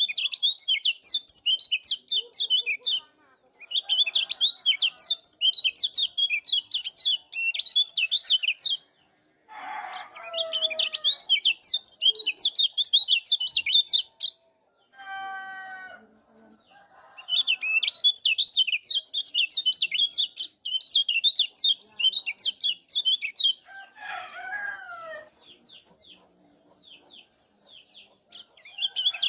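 Kecial kuning (Lombok yellow white-eye) giving fast, high, repeated 'ciak' chirps in bursts of a few seconds with short pauses. A few lower, separate calls from other birds come between the bursts.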